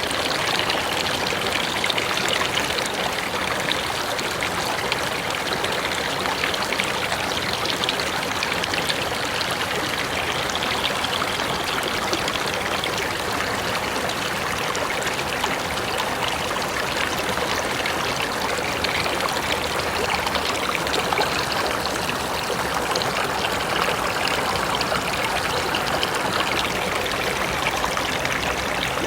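Mountain river rushing over rocks: a steady, dense sound of flowing water.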